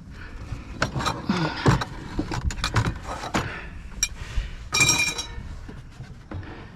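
Objects being handled and set down: a series of knocks and clatters, with a short bright metallic ring about five seconds in.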